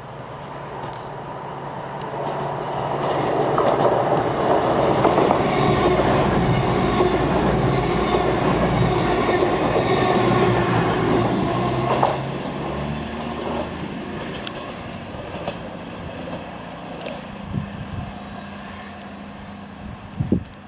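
A passenger train passing close by along the main line: it builds up, is loud with wheels clattering over the rail joints for about eight seconds, then drops off sharply and fades, with a few knocks near the end.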